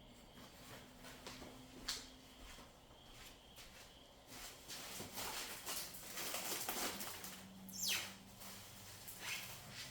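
Packaging being handled: quiet, irregular rustling and crinkling with scattered clicks, busier in the second half, and a louder short scraping sweep falling in pitch about eight seconds in.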